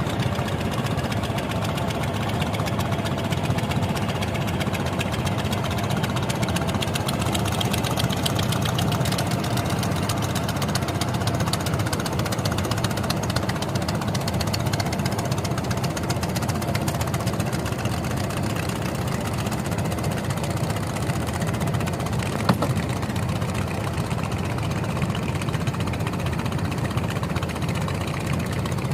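Vehicle engine running steadily, with one sharp knock about twenty-two seconds in.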